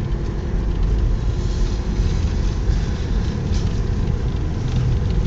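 Steady low rumble of a Subaru driving up a snow-covered mountain road, with engine and tyre noise heard from inside the cabin.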